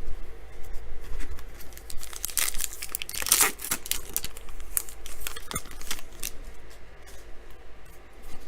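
A trading card pack wrapper being torn open, with crinkling, the loudest tearing about two to four seconds in, followed by lighter handling of the cards.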